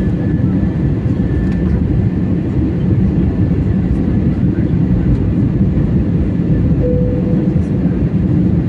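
Steady, loud noise of a passenger airliner's engines and airflow heard inside the cabin.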